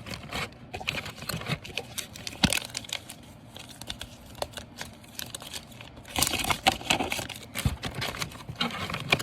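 Sheet-mask packets crinkling and rustling as they are handled and set back into a fridge door shelf, with many small clicks and taps, busiest about six seconds in.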